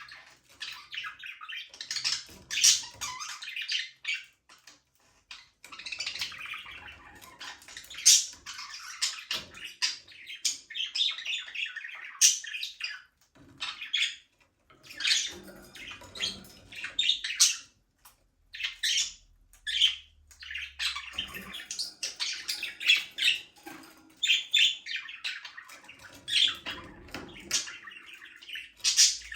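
A flock of budgerigars chattering: rapid, overlapping chirps, warbles and short squawks that keep on with only brief pauses.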